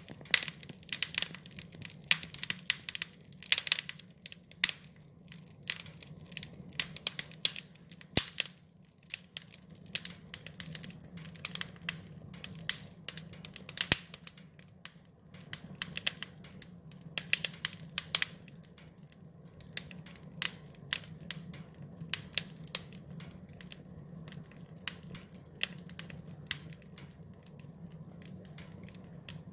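Wood fire crackling, with frequent sharp pops and snaps that come thickest in the first half and thin out later, over a low steady hum.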